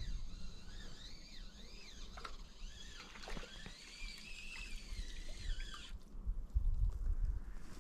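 Birds singing in wavering, gliding phrases over a low rumble; the song breaks off abruptly about six seconds in.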